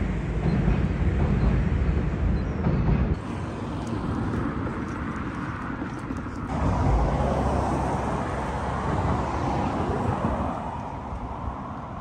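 Low rumble of a passing train crossing a steel girder rail bridge for about the first three seconds, then, after a cut, steady road traffic noise beside a street.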